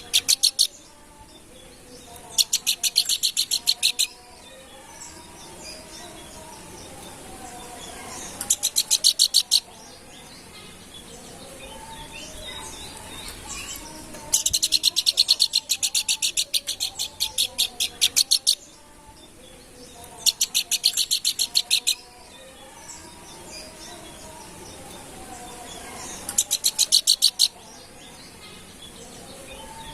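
Planduk bukit songbird singing loud, fast high-pitched trills in repeated bursts of one to four seconds, about six in all. Softer low warbling notes fill the gaps.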